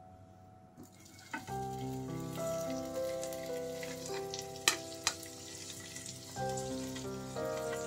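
Paneer cubes sizzling as they are laid into hot ghee in a non-stick frying pan, the sizzle building as more pieces go in, with a few sharp clicks of a spatula. Soft keyboard background music plays underneath.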